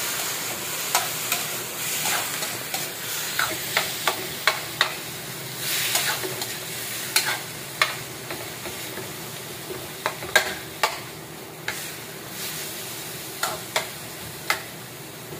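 Chicken pieces frying in oil in a stainless steel wok, sizzling, while a metal spatula stirs them and clinks sharply against the pan at irregular moments. The sizzle slowly dies down.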